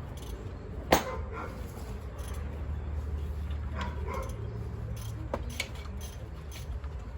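A sharp knock about a second in, then a few fainter clicks over a steady low hum.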